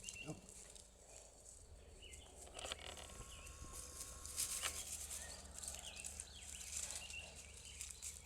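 Quiet outdoor field ambience: faint, scattered short high chirps and a few light clicks over a low steady hum.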